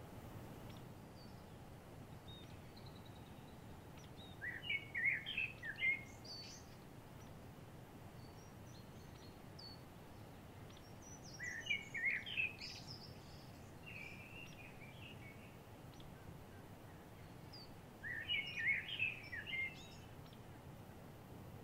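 A songbird singing three short warbled phrases, about seven seconds apart, over a steady background noise.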